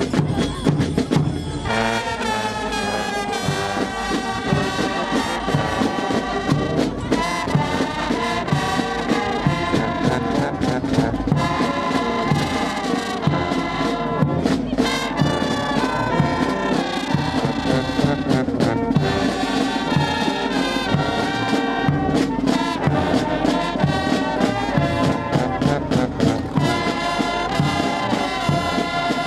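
Brass band playing a tune, trombones and trumpets over drums; the brass comes in about two seconds in after a short passage of drumming.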